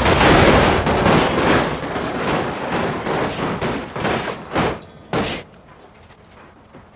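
A rapid, dense string of crashing, clattering impacts for about five seconds, thinning to a few separate hard knocks before stopping abruptly.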